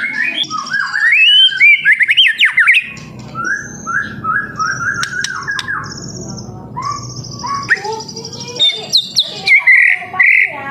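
Young white-rumped shama (trotol) singing: loud varied whistles with quick rising and falling slides, then a run of short repeated notes under high trills, with loud whistles again near the end.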